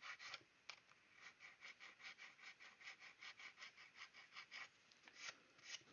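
Faint hand-sanding of a plastic scale model: a quick, even run of light scratchy strokes, about four or five a second, fading out near the end.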